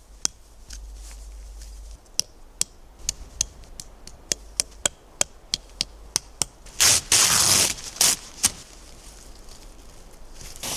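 Metal tent pegs being hammered into hard frozen ground: a run of about a dozen sharp strikes, roughly three a second. Then comes a louder scraping rustle lasting a second or two, with a couple more strikes.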